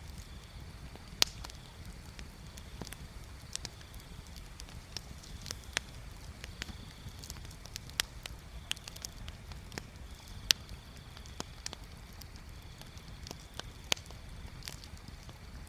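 Wood bonfire crackling, with sharp, irregular pops and snaps over a low steady rumble. A faint high-pitched buzz comes and goes in the background.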